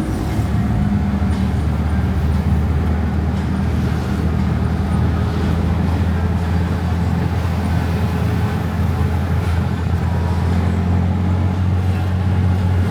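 Motor vehicle engine running steadily with a low hum and road noise, heard while riding in the vehicle.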